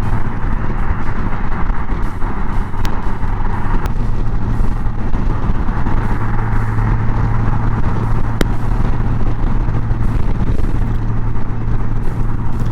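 Honda Gold Wing's flat-six engine running steadily at highway cruising speed, a constant hum under wind and road noise.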